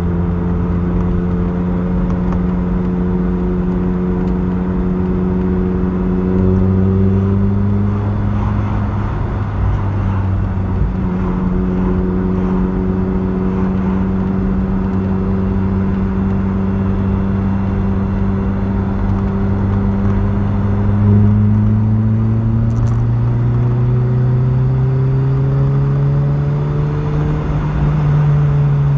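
Vauxhall Cavalier's 2.0 SEH four-cylinder engine pulling along at speed, heard from inside the cabin over tyre and road noise. The engine note steps between gears and climbs steadily near the end.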